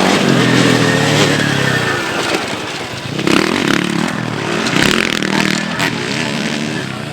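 Several motocross bikes racing past, their engines revving up and down in pitch as they accelerate and back off.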